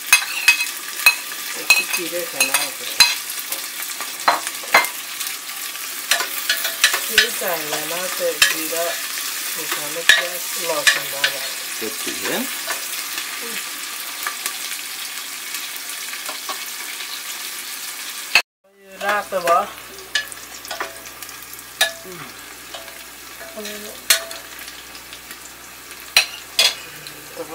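Onion, green chillies and garlic sizzling in hot oil in an aluminium pressure-cooker pot, stirred with a steel ladle that scrapes and clicks against the pot again and again. The sound cuts out briefly about two-thirds of the way through, then the frying carries on.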